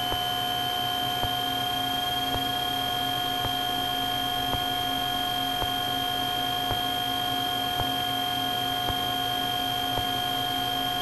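Steady drone and whine of a Cessna 310's twin piston engines held at reduced power for slow flight, heard through the cockpit intercom, with faint ticks about once a second.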